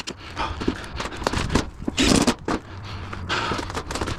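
Metal roofing panels being handled and slid together, with irregular scraping and knocks. The loudest burst comes about two seconds in, and a longer stretch of noise follows near the end.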